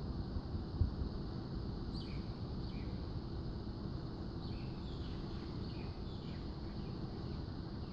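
Short falling bird chirps, twice around two seconds in and then a quick series in the second half, over a steady low outdoor rumble, with one dull bump just under a second in.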